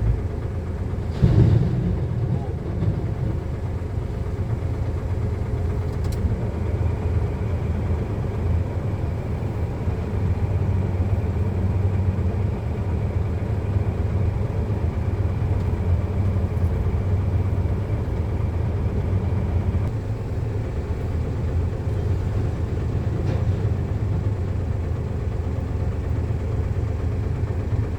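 A heavy diesel engine runs steadily with a low rumble. There is a brief loud thud about a second in.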